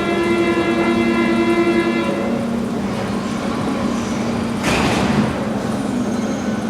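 VAL automatic metro train and its station, with a steady pitched tone that stops about two seconds in over a constant rumble, then a brief hiss near five seconds in.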